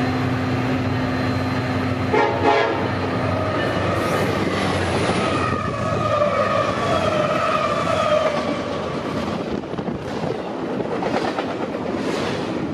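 Union Pacific freight train passing close at speed: diesel locomotives go by, then double-stack container cars rattle and clack over the rails. A train horn sounds for a few seconds around the middle.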